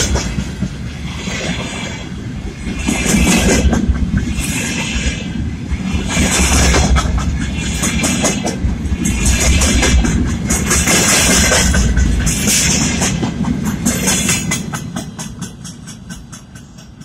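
Freight train of open-top wagons rolling past close by, wheels clattering rhythmically over the rail joints. The sound fades over the last few seconds as the tail of the train passes and moves away.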